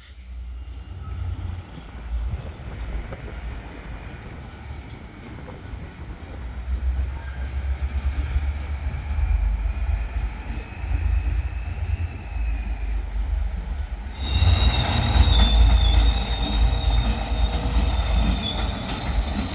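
Train wheels squealing against the rails over a low rolling rumble as railcars move past. The squeal grows much louder and shriller about three-quarters of the way through.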